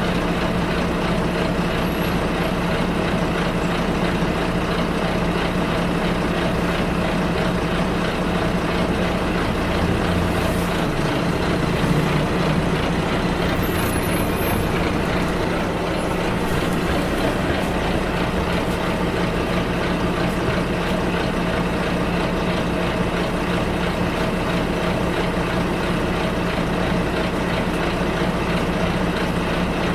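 Bus engine running steadily with road and cabin rumble, heard from inside the bus. The low hum shifts briefly about ten to twelve seconds in, followed by a faint high squeak.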